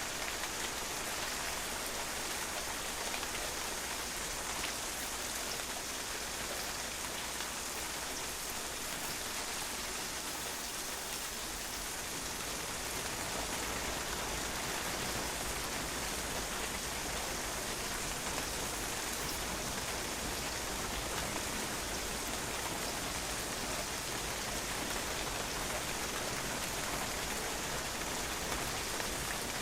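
Steady rain falling and drops pattering on a patio, a dense even hiss of many small splashes.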